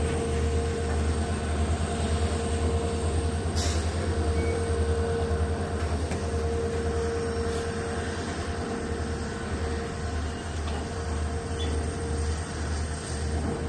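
Goods train on the move, a steady heavy rumble with a held hum in it and a brief sharp click about three and a half seconds in.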